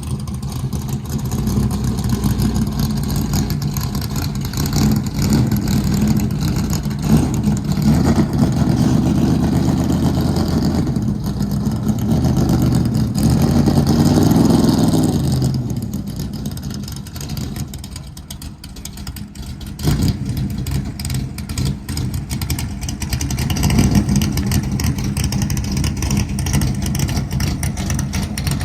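Truck engine running under way with road noise. It builds to a peak about halfway through, eases off for a few seconds with a brief knock, then pulls again.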